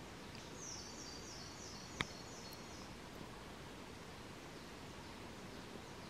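A bird giving a quick series of high notes for about two seconds, over steady background hiss, with one sharp click about two seconds in.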